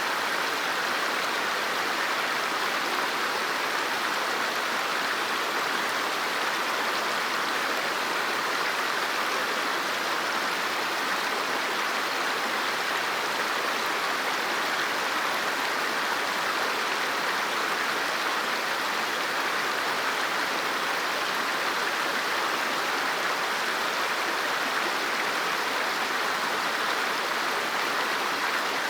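River water flowing steadily, an even rushing babble.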